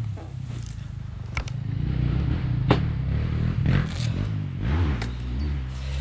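Dirt bike engine idling while the bike stands still, getting slightly louder about two seconds in, with a few sharp clicks on top.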